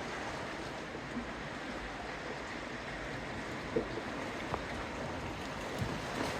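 Steady outdoor water noise by the sea, with a few faint, soft knocks.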